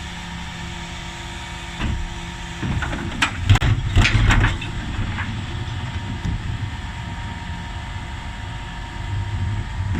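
Dennis Elite 6 bin lorry's engine running steadily, with a burst of knocks and clatter between about three and four and a half seconds in.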